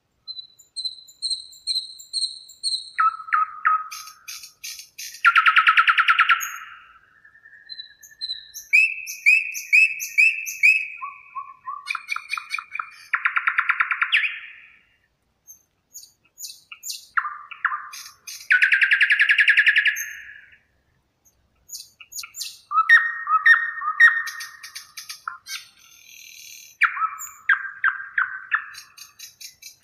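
Songbirds singing: a run of varied phrases, fast trills and short series of repeated whistled notes, separated by brief pauses.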